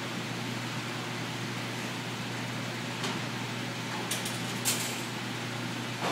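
Steady fan-like hum of room ventilation, with a few short sharp clicks: one about three seconds in and a small cluster between four and five seconds, the last of these the loudest.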